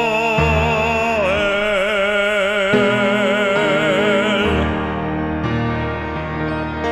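Baritone voice holding a long sung note with wide vibrato over piano accompaniment; the voice stops about four and a half seconds in and the piano carries on alone.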